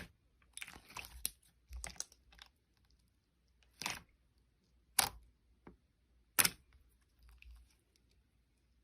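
Mixed slime being pressed and worked by hand, giving sharp clicky pops and short crackles in an irregular run. The loudest pops come about five and six and a half seconds in, with a faint crackle near the end.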